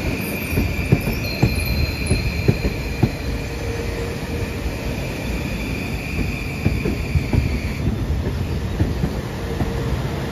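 Kawasaki M8 electric multiple-unit cars rolling past, the wheels giving a high steady squeal that stops about eight seconds in, over irregular clicks and clunks of wheels over the rails.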